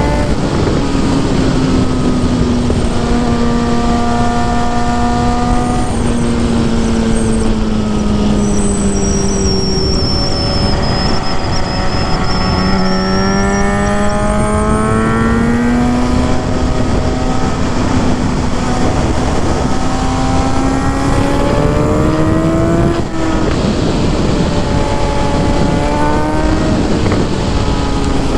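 Suzuki GSX-R750's inline-four engine and exhaust running steadily at fairly high revs, the pitch sagging a little in the middle and climbing again later. A faint high whine rides along for a few seconds near the middle.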